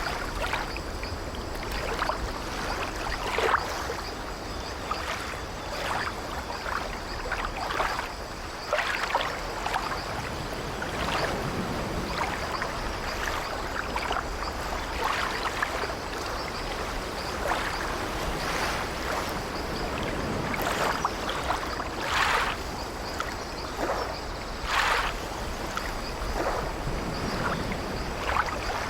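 Sea water washing and lapping against an old wooden ship in irregular small splashes, over a steady low rumble, with the ship's wooden timbers creaking.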